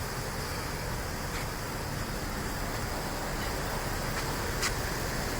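Steady rumble of an idling vehicle engine with a constant hiss, and a faint tick or two.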